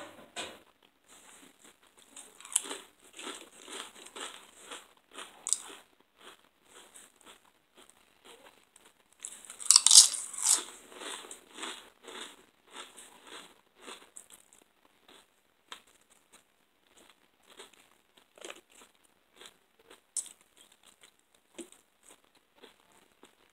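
A person chewing crunchy food close to the microphone, with many short crunches. The loudest burst of crunching comes about ten seconds in, and the chewing grows sparser after it.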